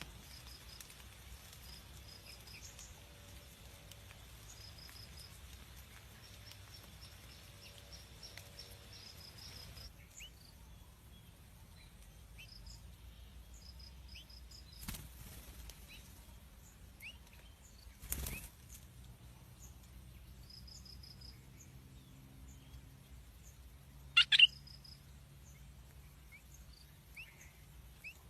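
A bird's wings flapping in brief flurries, the loudest a double flurry about 24 seconds in, with smaller ones around 15 and 18 seconds. Behind them run faint, high, repeated chirps.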